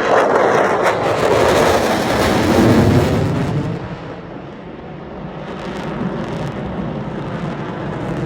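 F-22 Raptor's twin F119 turbofan engines in a loud jet flyby: the roar sweeps down in pitch over the first three seconds as the jet passes, then settles into a lower rumble that slowly fades.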